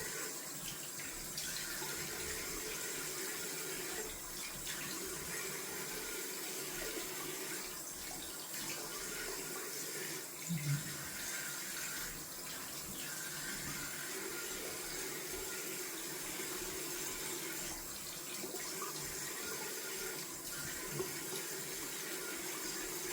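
Cold water running steadily from a sink tap, with splashing as water is scooped and rinsed over the face.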